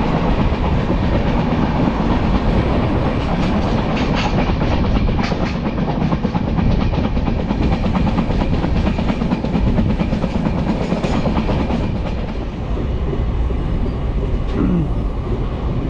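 Passenger train running at speed, a loud steady rumble with the wheels clattering over the rail joints.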